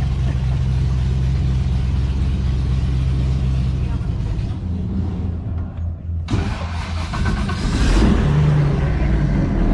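Boat engine running steadily at low revs, then revving up sharply about six seconds in.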